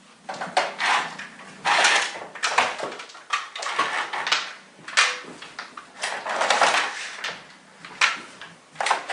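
Aerosol can of Crep Protect shoe-protector spray, given a series of short, irregular sprays onto sneakers to waterproof them against snow.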